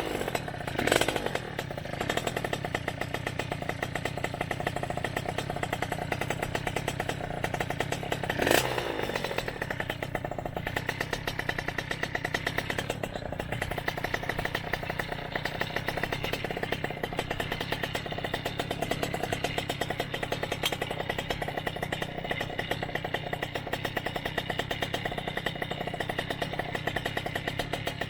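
Motorized bicycle's small engine running steadily under way, with a fast, even firing rhythm. It swells briefly louder about a second in and again around eight and a half seconds in.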